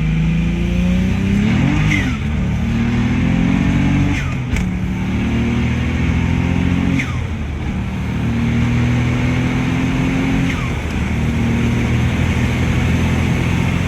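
Turbocharged BMW 135i inline-six pulling hard through the gears. The engine note climbs, then drops sharply at each of about four upshifts, with a brief falling whistle at every shift.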